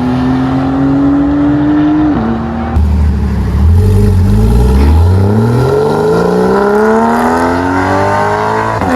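Performance car engines: a steady engine note, then from about three seconds in a car accelerating hard, its engine note climbing steadily for several seconds.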